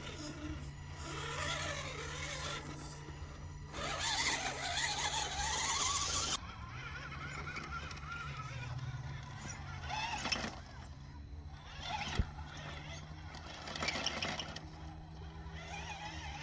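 Electric motor and gear transmission of a radio-controlled scale crawler truck whining under throttle, with a rising whine about four seconds in that cuts off suddenly a couple of seconds later.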